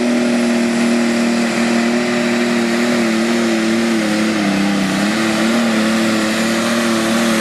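John Deere 4320 pro stock pulling tractor's turbo diesel running flat out under load during a pull: a loud, steady, high engine note that sags slightly in pitch about halfway through, then holds.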